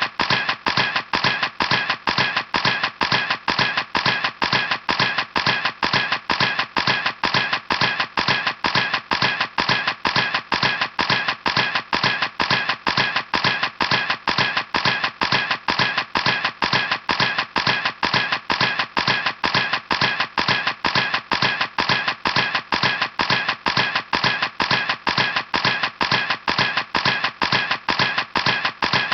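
Camera shutter clicking over and over in a steady, even rhythm, about three clicks a second.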